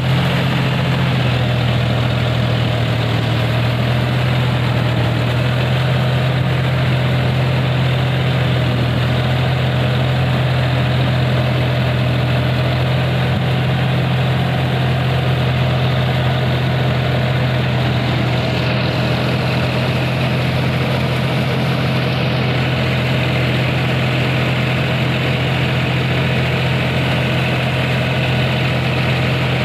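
John Deere 5050D tractor's three-cylinder diesel engine idling steadily.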